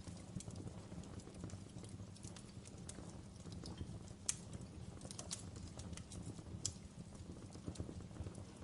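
Fire crackling in a fireplace: a steady low rumble under irregular sharp snaps and pops. The two loudest pops come about four seconds in and again near seven seconds.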